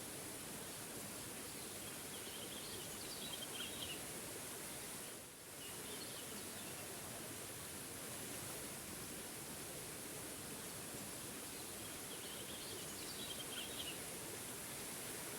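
Steady rush of a small waterfall, with a bird singing a short chirping phrase twice: about three seconds in and again near the end. The water sound dips briefly about five seconds in.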